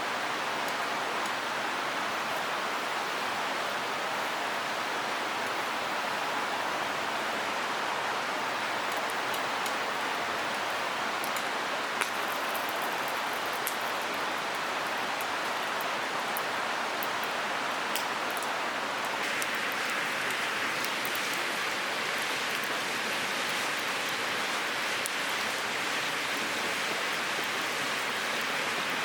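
Steady rushing water noise, with a few faint sharp ticks in the middle; about two-thirds of the way through the hiss turns brighter.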